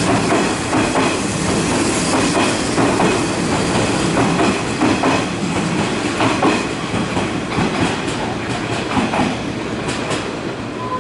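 Hanshin 1000 series electric train pulling out of the platform, its wheels clacking over rail joints and points in repeated knocks, growing a little quieter as it draws away.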